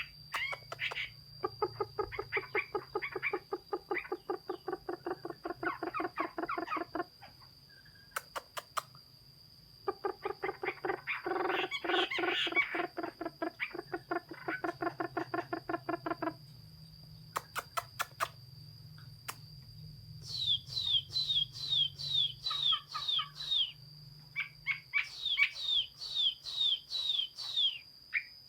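Hwamei (Chinese hwamei laughingthrush) singing: two long runs of fast, low repeated notes, then near the end phrases of quick downward-slurred whistles repeated several times a second.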